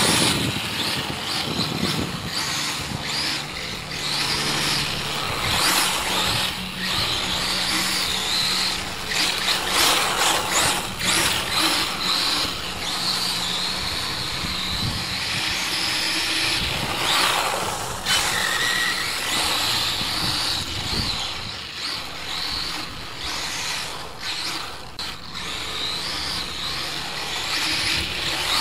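Kyosho DRX VE brushless RC rally car, with a Castle Creations Mamba Max Pro motor and ESC on a 3-cell LiPo, being driven hard. The motor's high whine rises and falls with the throttle over steady tyre and ground noise.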